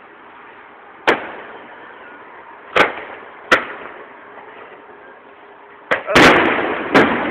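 Fireworks shells bursting overhead: about six sharp bangs at irregular gaps of one to two seconds, with a longer, louder rolling burst about six seconds in.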